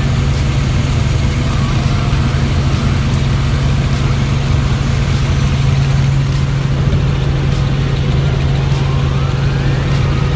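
Helicopter in cruising flight: a loud, steady drone of engine and rotor with a fast low flutter.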